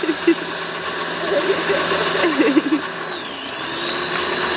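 Pressure washer running steadily and spraying water, its high whine dipping briefly in pitch about three seconds in.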